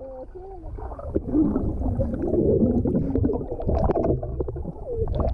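Pool water splashing and sloshing close to the microphone as otters swim and push off people standing in the water, a churning low rumble with many small knocks, and muffled voices underneath.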